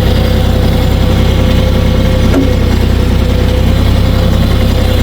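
A vehicle engine running steadily at an even, low speed, with one brief click about two and a half seconds in.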